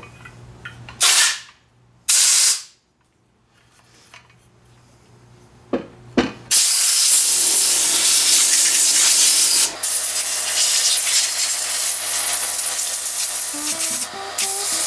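Pressurized spray hissing: two short bursts about a second apart, then one long continuous spray from about halfway through.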